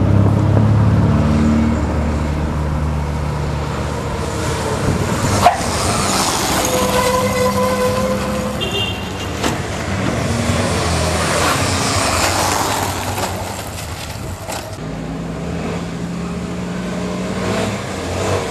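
Trail motorcycle engine running and revving, its pitch rising and falling, with a sharp knock about five seconds in.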